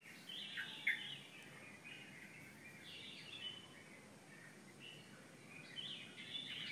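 Birds calling and chirping faintly in short scattered bursts over a quiet outdoor hush, the loudest call about a second in.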